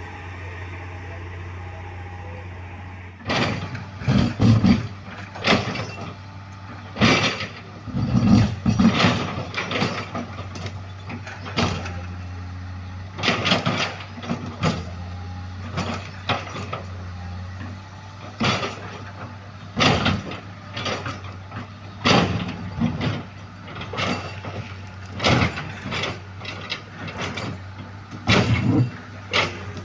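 Heavy road-works machinery: an engine running steadily, with irregular sharp clanks and knocks from about three seconds in, roughly one every second or two.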